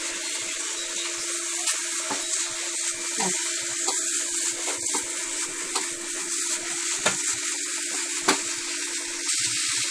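Grated raw papaya with spices sizzling in a nonstick wok over a low flame, stirred with a wooden spatula that scrapes and taps against the pan every second or so.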